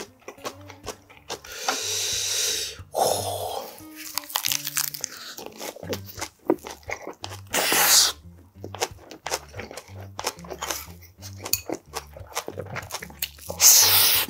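Close-up chewing of a leafy ssam wrap of pork bulgogi: wet crunching of fresh leaves and soft chomping, with many short crackles and a few louder rushes of noise about two seconds in, around eight seconds and near the end.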